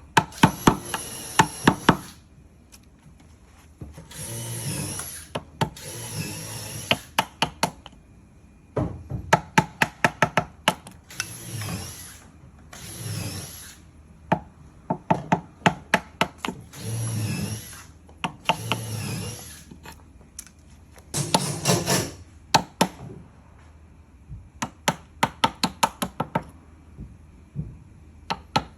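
Carpentry tools cutting a timber joint: one- to two-second bursts of a tool cutting into wood alternate with quick runs of sharp knocks, several a second, repeating over and over.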